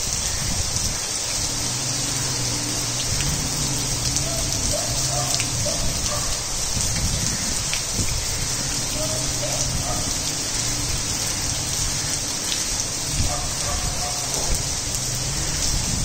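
Heavy rain falling steadily on clay roof tiles and splashing into standing water on the street, a continuous even hiss.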